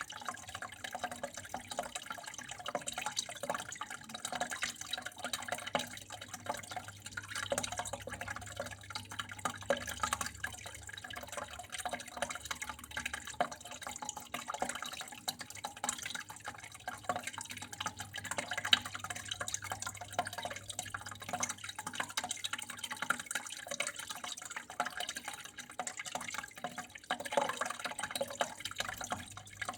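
Water trickling and dripping steadily, a dense, uneven patter of small splashes, over a faint steady low hum.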